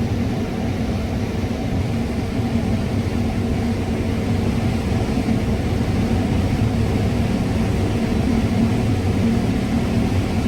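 John Deere combine harvester running steadily while cutting corn: an even engine and threshing drone with a low hum, heard from inside the cab.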